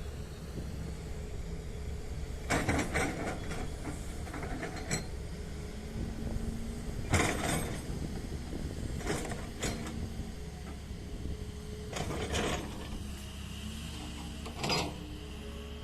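Heavy machine engine running with a steady low hum, broken by short bursts of metallic clanking and rattling every two to three seconds.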